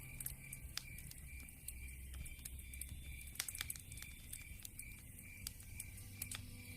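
Wood fire crackling in a fireplace: irregular sharp pops and snaps over a soft hiss, with a few louder pops a little past the middle.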